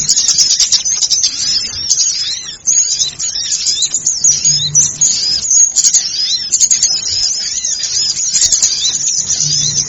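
A noisy chorus of many small birds calling at once: a dense stream of rapid, high-pitched overlapping chirps and twitters, used as a bird-lure recording to draw small birds in.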